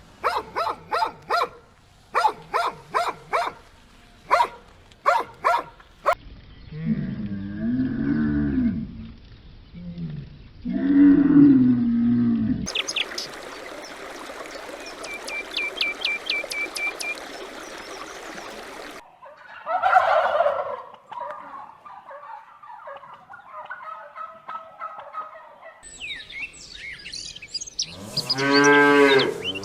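A run of separate animal sounds, chiefly cattle mooing: long low moos that rise and fall about seven and eleven seconds in and again near the end. Between them are other short animal sounds: groups of sharp clicks at the start and a quick series of high ticks over a noisy stretch in the middle.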